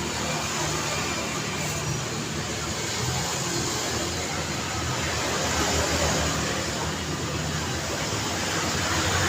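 Road traffic on a busy street: a steady mix of passing car and motorbike engines and tyre noise, swelling slightly as vehicles pass about six seconds in and again near the end.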